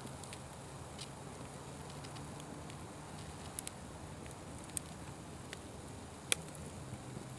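Fire crackling, with a few sharp pops over a steady low rumble; the loudest pop comes about six seconds in.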